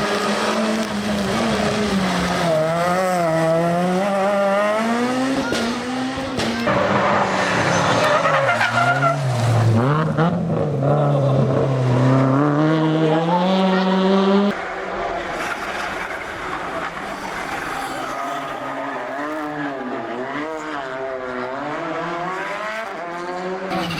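Rally car engines revving hard, the pitch climbing and dropping with each gear change and lift, with tyres skidding on the stage. The sound changes abruptly twice, about six and fourteen seconds in.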